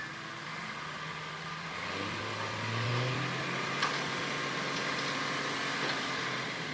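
Heavy construction machine's engine running under load, swelling and rising in pitch about two to three seconds in, with a single sharp metallic clank just under four seconds in.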